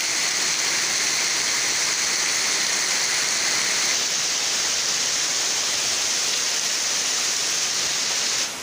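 Heavy rain pouring down steadily onto a paved path and puddles, a dense even hiss. Its tone shifts slightly about four seconds in.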